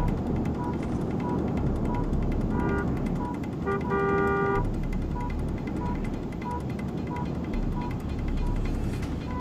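Car horns honking over steady traffic noise: a short blast near three seconds and a longer one about a second later. A regular high beep repeats about twice a second throughout.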